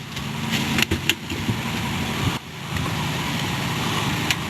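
Car engine idling steadily just after a cold start on a jump-start, its battery dead and now charging. A few sharp clicks sound about a second in and again near the end.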